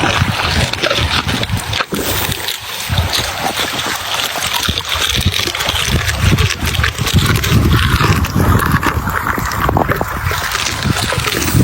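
Wind buffeting the microphone in irregular gusts, over a steady rush of water.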